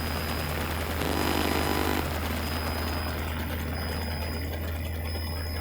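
Cessna 172's engine and propeller droning steadily in cruise, heard inside the cockpit.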